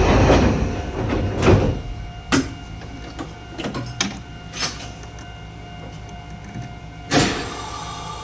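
Sangi Railway Hokusei Line narrow-gauge train car with a steady electrical hum, broken by a few sharp knocks and clunks, the loudest about seven seconds in.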